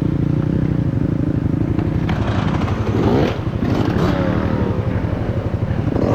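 Honda CRF110F pit bike's small single-cylinder four-stroke engine revving hard in repeated rising bursts as the bike struggles up out of a deep rut over roots, with rattling from the bike.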